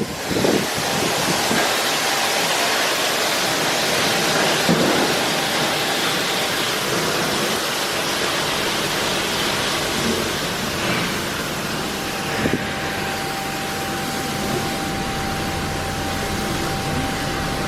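Mark VII AquaJet XT touchless car wash spraying high-pressure water, a steady loud hiss like heavy rain. About twelve seconds in, a steady whine and a low hum join it.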